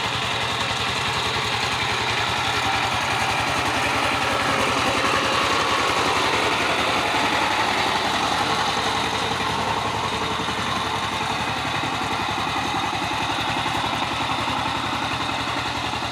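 Power tiller's single-cylinder diesel engine running steadily with a fast, even putter, swelling a little in the middle.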